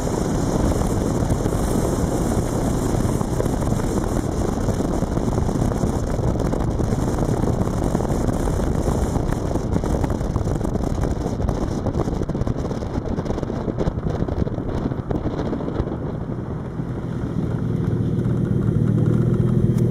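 Race car engine with wind and road noise, heard inside the caged cabin while driving on the circuit. Near the end the car comes to a stop and the engine settles into a steady, louder idle.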